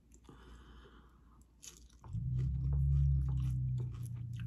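Close-up crunching and chewing of tortilla-chip nachos, with sharp crunches throughout. About two seconds in, a low steady hum starts and keeps going, louder than the chewing.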